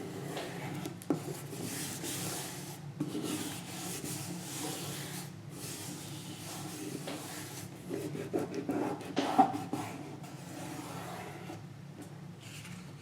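Paper being rubbed while a collage layer is glued down with a glue stick: steady rubbing and rustling with a few small knocks of handling, busier about eight to nine seconds in.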